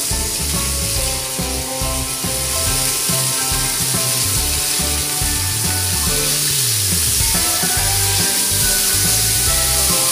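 Chicken wings sizzling as they pan-fry in oil, with a steady high hiss, under background music with held notes and a bass line.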